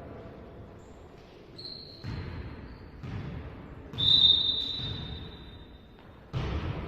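A volleyball being struck and bouncing on a sports-hall floor, with echo: sudden thuds about a second apart from two seconds in, the loudest about four seconds in, followed by a high-pitched tone held for about two seconds. Another hard hit comes near the end.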